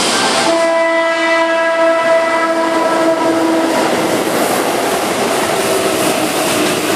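Keihan 7200-series electric train sounding one steady horn blast of about three seconds as it approaches, then the rolling rumble and wheel clatter of its cars passing close by.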